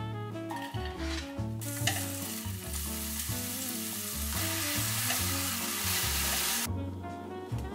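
Onions and mushrooms sizzling in oil in a nonstick frying pan as they are stirred with a spatula, caramelizing with panela. The sizzle starts about one and a half seconds in and stops shortly before the end, over background music.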